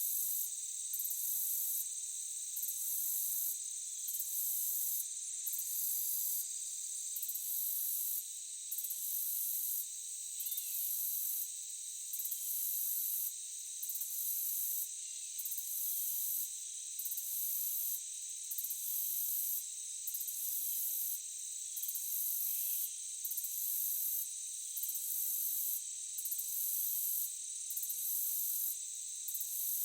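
Forest insect chorus: a dense, high-pitched buzzing whose top part pulses on and off about once a second.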